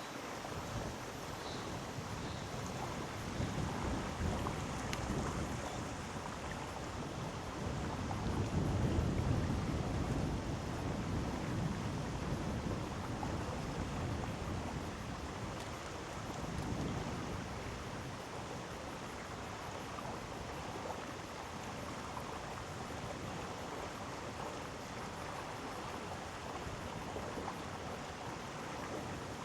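Mountain stream in a gorge flowing, a steady rushing of water, with low rumbling swells of wind on the microphone about eight seconds in and again near sixteen seconds.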